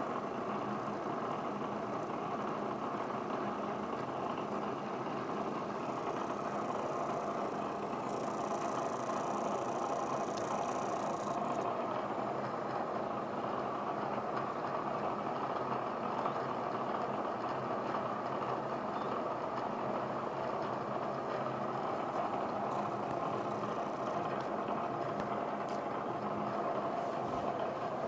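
Milling machine running steadily, its spindle turning an edge finder while a part is located.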